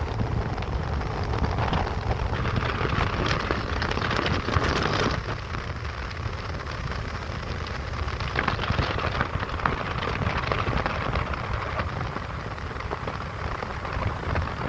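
Steady crackling hiss of rain under a low wind rumble on the microphone. It starts and stops abruptly at cuts.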